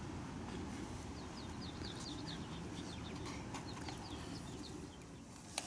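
A songbird chirping: two quick runs of short, falling high notes over a low outdoor background, then a single sharp click near the end.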